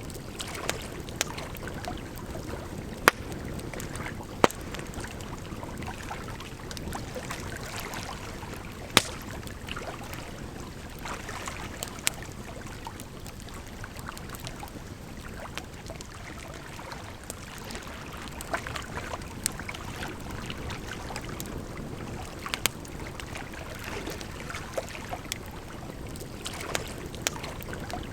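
Campfire crackling, with sharp pops scattered irregularly and the loudest a few seconds in, over a steady rush of flowing water.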